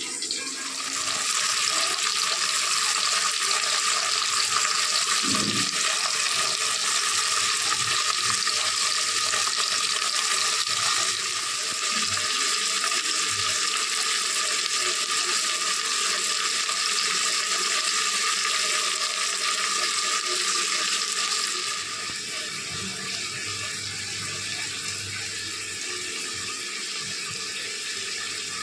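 Chicken pieces and masala sizzling steadily in hot oil in an aluminium pot, a continuous hiss that grows a little quieter a few seconds before the end.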